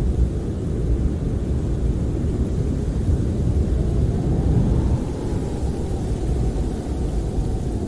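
Snowstorm wind blowing against a camper, heard from inside as a steady low rumble. About halfway through, a faint higher moan rises and falls.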